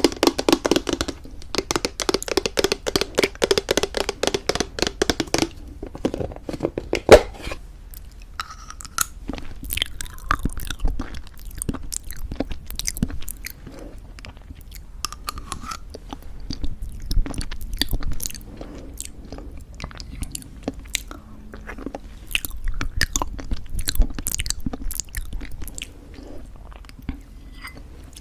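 Close-miked crunchy chewing of granola mixed into thick yogurt. The crunching is dense and loud for the first few seconds, with one sharp loud crunch around seven seconds, then goes on as slower, softer chewing.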